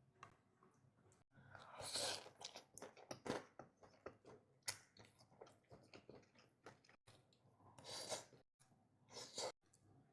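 A person chewing and crunching food in irregular bursts, with the loudest crunches about two, five, eight and nine seconds in.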